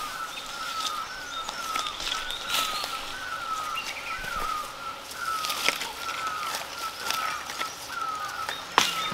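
A bird calling one short note over and over, a little under twice a second, each note rising and then falling, with a few scattered rustles and clicks, the loudest near the end.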